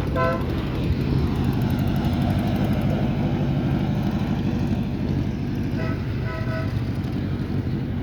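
Vintage Indy-style race car engine running at a steady, low-revving rumble with no revving up or down. A brief run of flat tones sounds over it about six seconds in.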